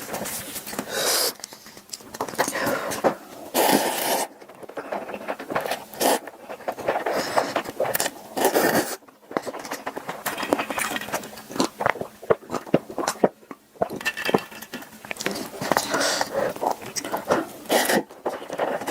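Close-miked eating sounds: chewing and slurping, with many wet mouth clicks and smacks coming irregularly.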